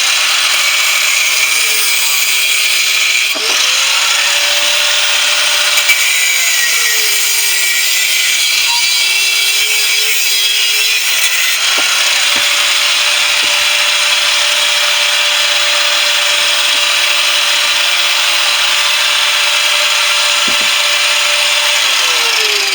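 Power tool cutting into the shell of a central air conditioner compressor. The motor's pitch drops as it bites, recovers, then winds down near the end.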